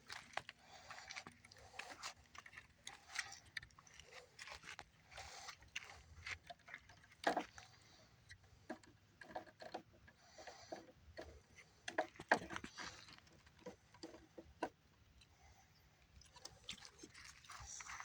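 Puppy chewing on a manzanita branch: irregular crunching and cracking of wood under its teeth, with sharper snaps about seven seconds in and again around twelve seconds.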